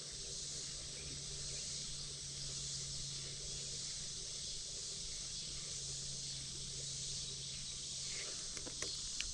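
Steady high-pitched insect chorus, an even shrill hiss, over a faint low steady hum, with a couple of faint ticks near the end.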